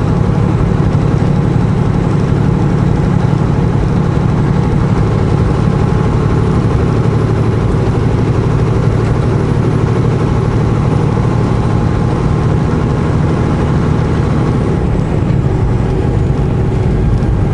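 Semi-truck's diesel engine running steadily while driving, a low, even drone.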